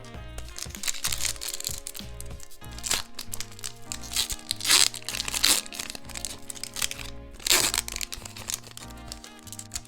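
Packaging crinkling and rustling in several short bursts, the loudest about halfway through and again near three-quarters of the way, over steady background music.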